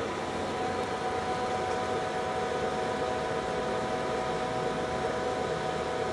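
Poreba TPK-80 engine lathe running under power, its gearing and motor giving a steady whine of several tones over a mechanical hum.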